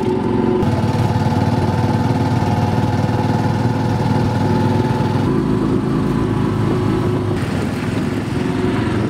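Small motorcycle engine of a Philippine tricycle running steadily while the tricycle is under way, heard from inside its sidecar.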